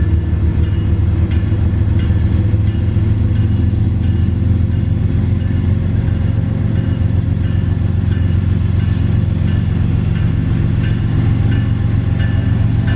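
CSX intermodal freight train rolling past at low speed: a steady low rumble with faint high wheel tones, and regular clicks of wheels over rail joints near the end.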